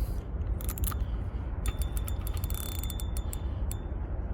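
Spinning fishing reel being cranked: its gears whir with a faint high whine and irregular clicking, over a steady low rumble.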